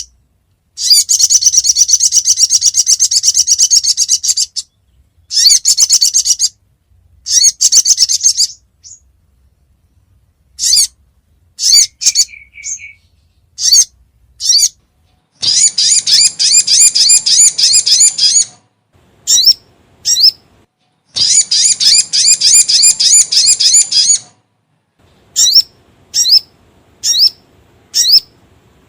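Recorded sogon (sogok ontong) bird calls played as a lure: long, rapid, high-pitched chattering trills of about three seconds each, three times, with short sharp single notes between them.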